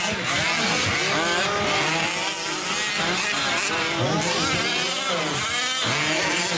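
Several 1/5-scale gas-powered RC trucks' small two-stroke engines racing together, their pitch repeatedly rising and falling as they throttle up and back off around the track.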